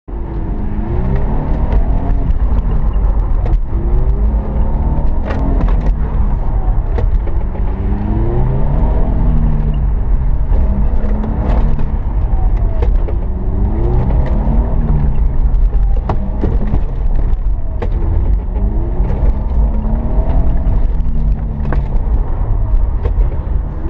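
Car engine heard from inside the cabin, revving up and dropping back again and again in short bursts of hard acceleration and braking through a tight slalom course. A steady low road rumble runs under it, with occasional sharp clicks.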